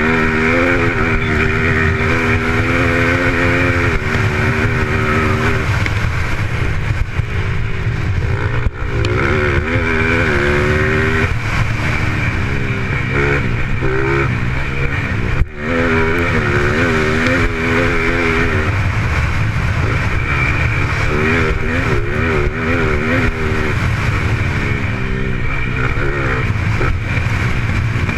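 Motocross motorcycle engine racing on a dirt track, its pitch repeatedly climbing and dropping as the throttle opens and closes through gear changes, over a steady low rumble. The sound cuts out briefly twice.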